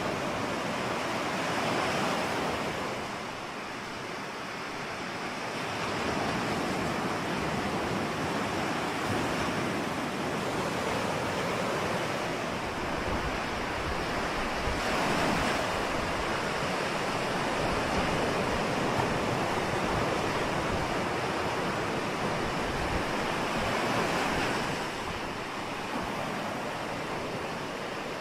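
Ocean surf: waves breaking and washing in a steady rush that swells and eases every several seconds.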